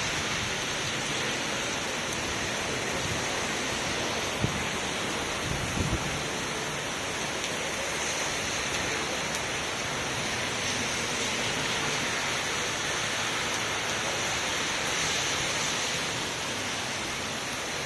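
Heavy rain falling in a steady hiss, with a sharp knock about four seconds in and a few softer knocks a second or so later.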